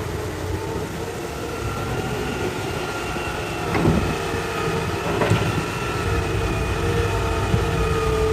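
Hitachi excavator running while digging rock: a steady diesel rumble under a constant hydraulic whine, with two short knocks about four and five seconds in.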